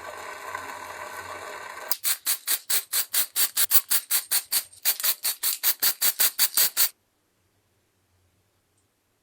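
A steady rasping noise, then rapid back-and-forth hand rubbing or scraping strokes on a part, about five a second, that stop abruptly about seven seconds in.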